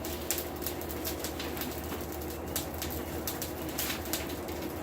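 Hardwood charcoal fire in a forge crackling with many small irregular pops, over a steady low hum.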